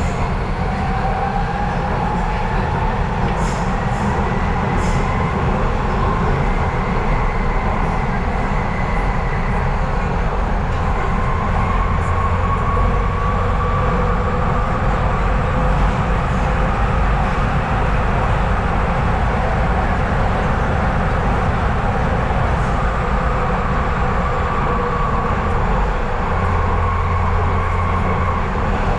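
Docklands Light Railway train running, heard from inside the carriage: a steady loud rumble and rush of wheels on rail, with an electric motor whine that slowly rises and falls in pitch.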